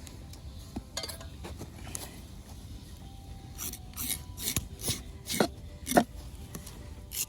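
Knife scraping the slime and skin off a scalded sterlet: short scraping strokes, a few faint ones at first, then a quicker run of about eight stronger strokes from about halfway through.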